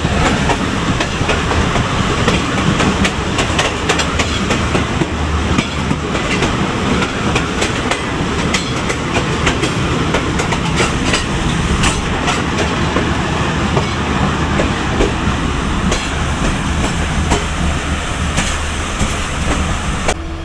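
Passenger train running along the track: a steady loud rolling rumble with many sharp wheel clicks as the wheels pass over rail joints.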